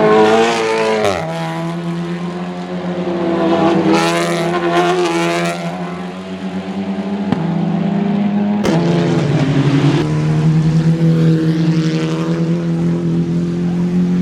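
Touring race car engines running hard, their pitch rising and falling with throttle and gear changes, with a sharp drop in pitch about a second in.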